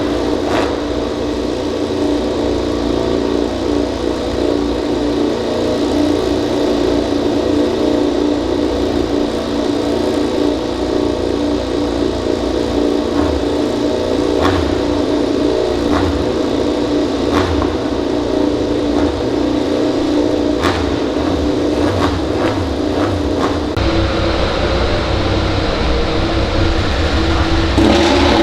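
MotoGP racing motorcycle engine running at steady, held revs, its note shifting near the end, with a few sharp cracks over it.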